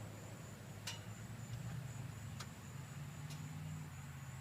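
A few sharp ticks, about one a second, over a faint steady low hum.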